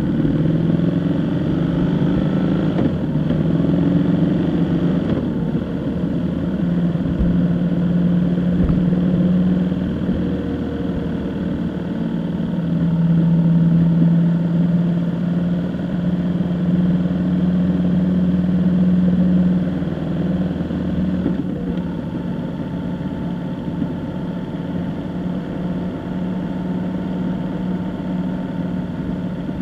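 Vehicle engine running on the road, its hum rising and falling slightly in pitch with speed. It gets a little quieter about two-thirds of the way through.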